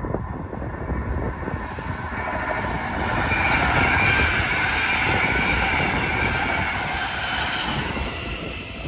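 Red double-deck regional passenger train passing on the track: rumble and rail noise with a high steady whine that build up, peak in the middle and fade near the end.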